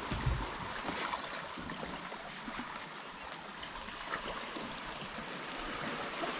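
Food frying in olive oil in a pan: a steady hiss with small scattered crackles.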